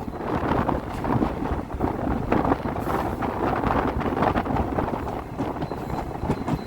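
Passenger train running along the track, with a steady rumble and scattered small clicks, and wind rushing across the microphone.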